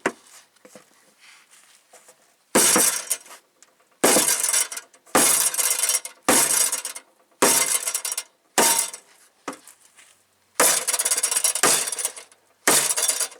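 Sledge hammer striking a metal truck fender mount: about eight hard, ringing metal blows roughly a second apart, with one longer clattering stretch about two-thirds of the way through.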